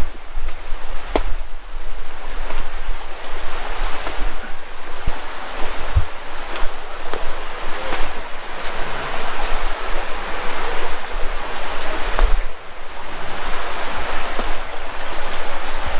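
Loud, steady rushing noise outdoors, with scattered light clicks and knocks through it.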